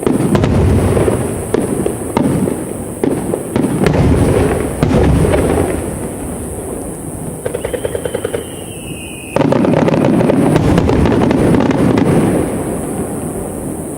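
Aerial fireworks display: a string of booming shell bursts. Near the middle come rapid crackling and a whistle falling in pitch, then a sudden dense barrage of bursts.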